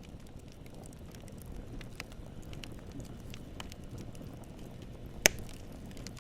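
Wood campfire burning: a steady low rumble of flames with scattered small crackles of wood, and one sharp, loud pop a little after five seconds in.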